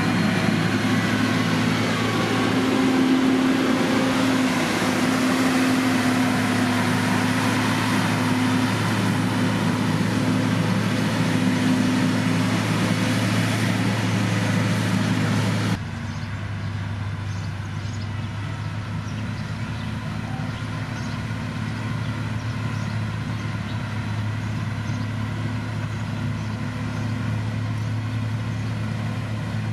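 Heavy diesel engine of road-construction machinery running steadily with a low hum. For the first half it is louder and brighter, with a rough noise over it; about halfway through it drops abruptly to a quieter, duller engine sound.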